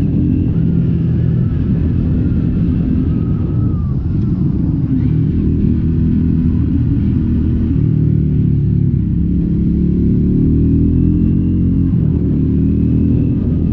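Triumph Scrambler 400X's single-cylinder engine running through its stock exhaust while being ridden, the revs rising and falling.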